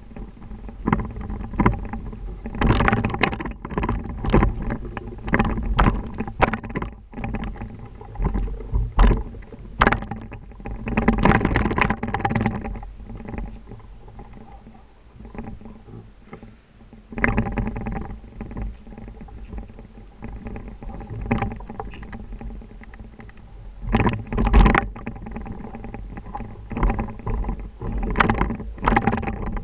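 Low rumble with wind buffeting the microphone, broken by many quick knocks and rattles that come in clusters and ease off for a few seconds in the middle, as a bike rides over an uneven surface.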